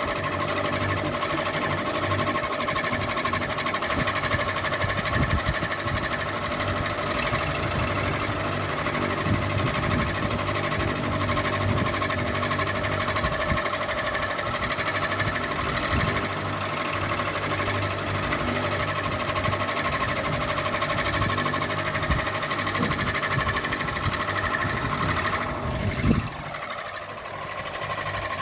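Ceiling fan running with a steady motor whine made of several tones, over a low rumble with irregular knocks. About 26 seconds in there is one sharp loud knock, and the sound dips briefly.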